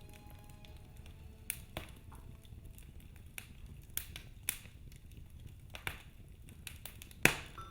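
Wood fire crackling in a fireplace: scattered sharp pops and snaps over a low steady rumble of the flames, with one loud pop near the end. Soft background music is faintly heard.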